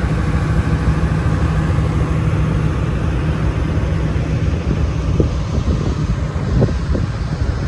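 Vehicle ferry's engine running, a steady low drone, with wind buffeting the microphone.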